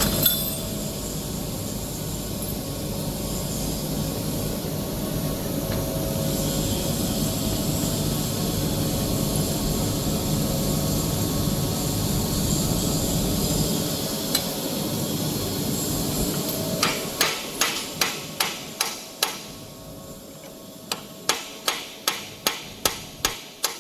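Steady machinery noise that dies away about two-thirds of the way through. It is followed by a run of sharp hammer blows, about two a second, with a short pause in the middle, as a part is knocked into place during a bearing replacement on a toilet-paper rewinder.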